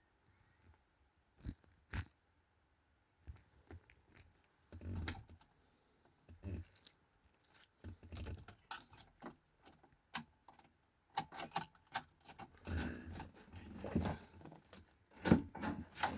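Scattered clicks and knocks with a metallic jingling, irregular and in bursts, growing busier in the second half.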